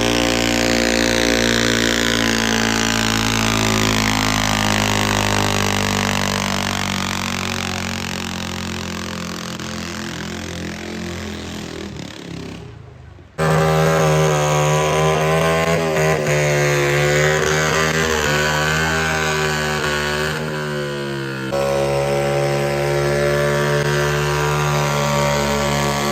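Pulling-tractor engines running at high revs. The first slowly falls in pitch and fades; after a short break a louder engine runs with wavering revs, and a further cut comes near the end.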